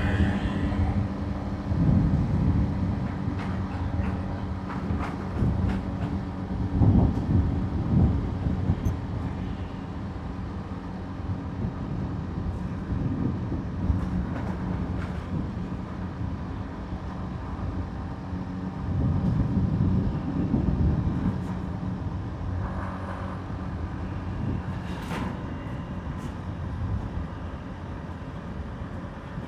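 Motorbike engine running steadily at cruise, heard from the rider's seat with tyre and wind noise. The sound swells a few times along the way.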